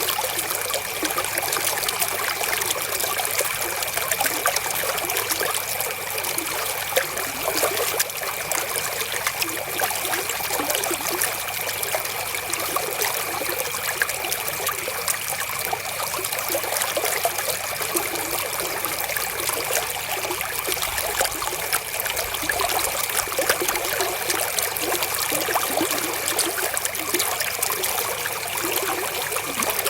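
River water trickling and splashing over stones in a steady, unbroken flow, with a faint steady high tone underneath.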